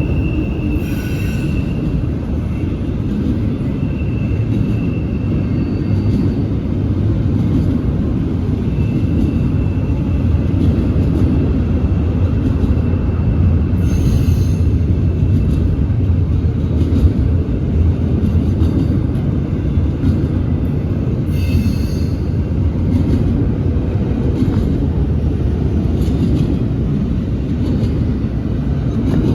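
A freight train rolling past, its wheels and cars making a steady heavy rumble on the rails, with a thin wheel squeal coming and going and a few brief sharper clanks.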